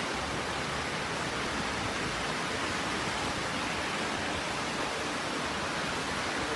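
Storm noise: a steady, even rush of wind and heavy rain with no breaks.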